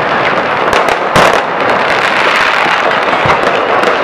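Fireworks going off: a dense, continuous crackling with several sharp bangs mixed in, the loudest about a second in.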